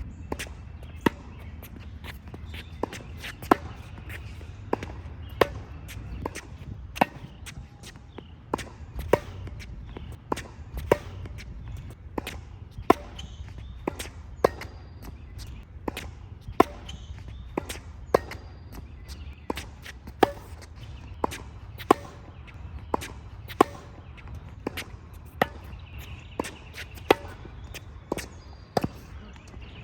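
Tennis balls struck on the volley with a racket, a sharp pock about once a second in a steady rally. Faint bird chirps sound a few times.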